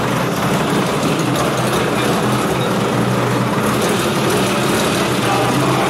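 Vintage front-engined open race car's engine idling steadily.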